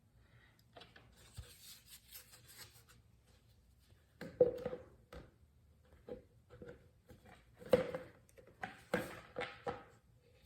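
Soft rustling, then a series of knocks and clunks from oil containers and caps being handled while getting ready to pour oil into the motorcycle engine.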